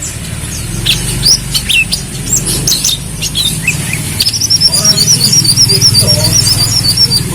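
Brown-throated sunbird (kolibri kelapa) singing: scattered sharp high chirps, then from about four seconds in a fast, continuous twittering run of notes. A steady low hum runs underneath.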